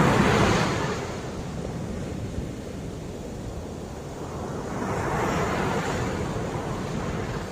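Rough ocean waves breaking and washing: a crash tails off in the first second, then the next wave builds about halfway through, crests, and recedes.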